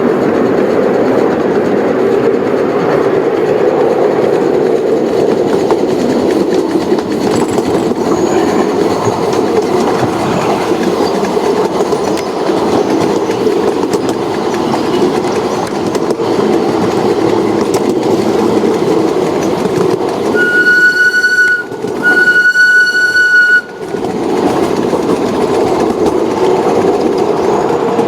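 A train running steadily along its track, with two long blasts of a single high-pitched whistle about twenty seconds in, the second a little longer than the first.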